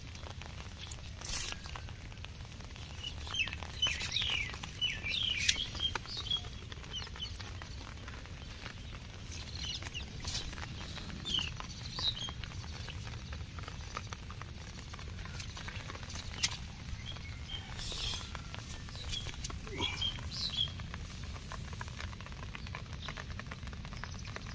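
Birds chirping in several clusters of short, quick falling notes, over a steady low rumble and scattered light taps.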